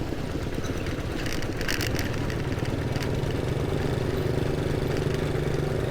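A motorcycle engine running as the bike rides along, under steady road and wind noise. About halfway through, the engine's hum becomes steadier and more even in pitch.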